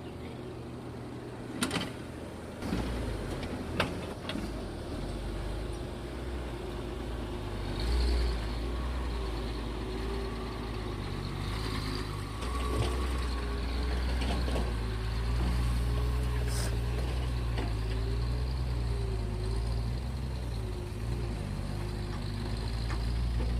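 Heavy diesel engine of a Kobelco excavator running under load as it digs and loads soil into a truck. The engine drone grows stronger about three seconds in, a wavering whine runs through the second half, and there are a few sharp knocks.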